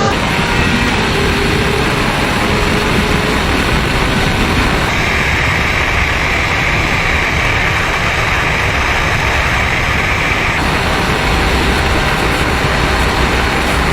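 High-speed motorcycle run: a loud, steady engine and rushing noise, with a brighter hiss through the middle few seconds.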